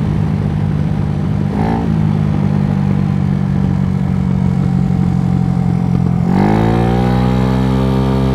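Scooter with an 88cc big-bore kit, its engine running under way with wind and road noise over it. About six seconds in the noise drops away and the engine note rises, then holds steady.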